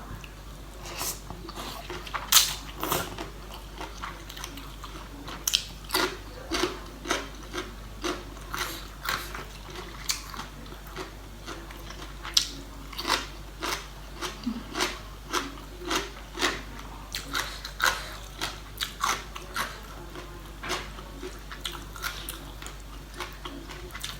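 Close-up chewing of crunchy spicy seafood papaya salad: a steady run of short crisp crunches, about two a second.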